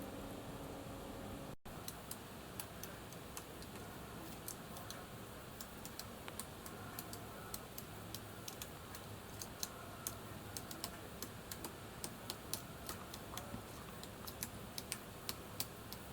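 Irregular sharp tapping clicks, sparse at first and coming several a second toward the end, over a faint steady hiss; the sound cuts out for an instant near the start.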